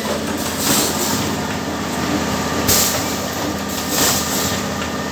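Cup-water filling and sealing machine running: a steady mechanical hum with short bursts of hissing air every second or two as it cycles.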